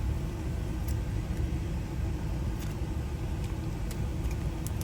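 Steady low rumble, with a few faint light clicks.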